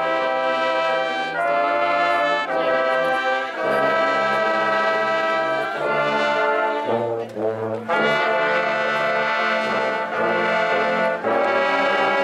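HBCU marching band's brass section playing loud, held chords that shift every second or two. Near the middle the band drops out briefly, leaving a low bass note, then comes back in full.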